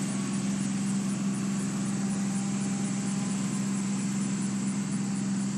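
Steady low machine hum with one strong unchanging low tone and a hiss above it.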